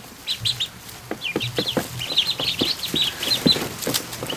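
A group of ducklings peeping in quick, high chirps, overlapping; they are frightened after being moved into a bigger space. A few soft clicks mixed in.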